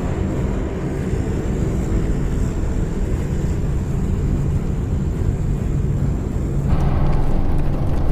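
Steady drone of a propeller plane's engines heard from inside the cabin in flight. The noise grows fuller and a little louder near the end.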